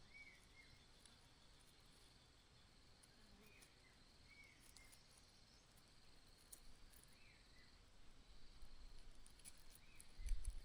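Faint outdoor ambience: a steady high insect buzz, with a few short, arched bird chirps every few seconds. Near the end come some faint rustling clicks and low thumps.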